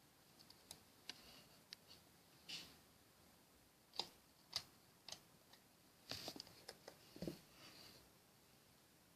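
Slime being handled by hand, making faint scattered sticky clicks and small pops, with a denser run of them about six to seven seconds in.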